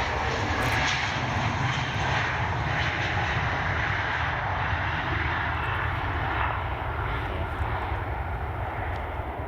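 Jet aircraft engines running, a steady loud roar that eases off slightly near the end.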